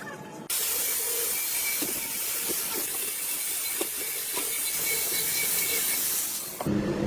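A steady hiss of compressed air or spray, switched on abruptly and held for about six seconds before cutting off sharply.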